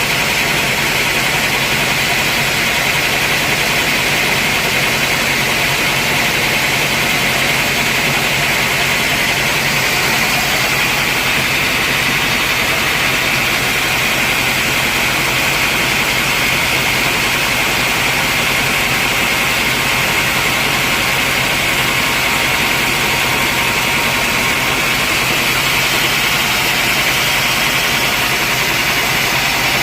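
Sawmill machinery running steadily: a loud, even mechanical noise that holds the same pitch throughout.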